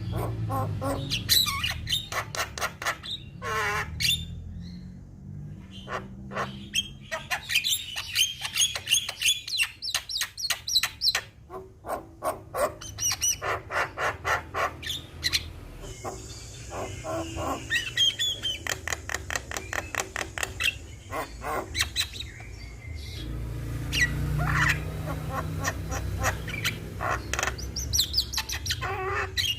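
Javan myna (jalak kebo) singing continuously, a long varied run of rapid chattering notes and chirps, with a low hum underneath.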